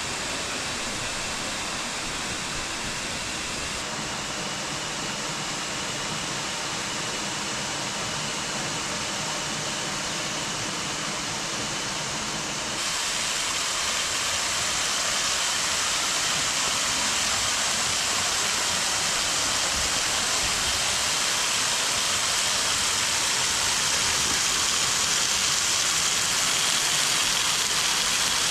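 Steady rush of falling water from Kursunlu Waterfall, which gets suddenly louder about halfway through.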